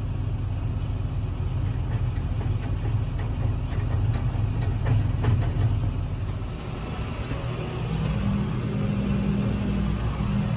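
Farm machinery engine running steadily while dry manure is loaded into the spreader, with a few short knocks in the middle and a steadier, higher engine note from about eight seconds in.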